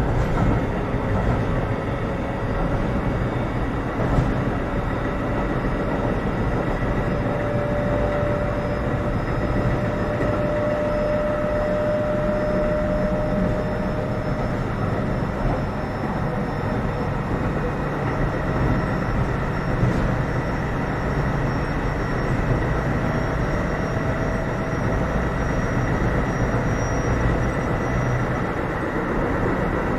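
Keio 7000 series electric train running, heard from inside the car: steady wheel-and-rail rumble with a thin motor whine that rises slowly in pitch as the train gathers speed, twice.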